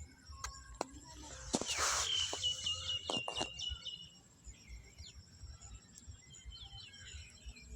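Birds chirping, with a quick trilled call running for about two seconds. A few sharp clicks and a brief loud rustling burst come in the first two seconds.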